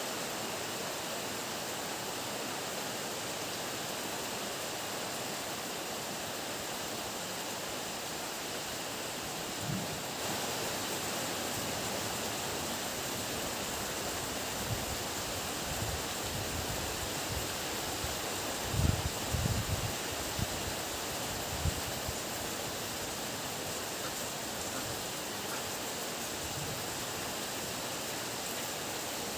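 Heavy rain falling as a steady, even hiss. A series of short, low rumbles and thumps breaks through in the middle, the loudest about two-thirds of the way in.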